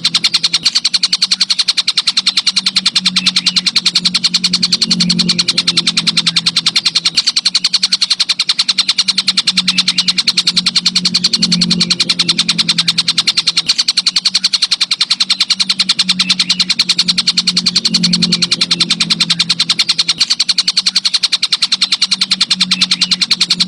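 A singing insect, cricket or katydid, in a continuous rapid pulsing trill, pitched high. A low hum runs underneath and swells and fades every few seconds.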